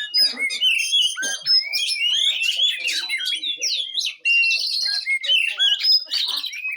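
Oriental magpie-robin (kacer) singing a continuous, rapid stream of varied whistles, chirps and quick rising and falling glides, with no pauses.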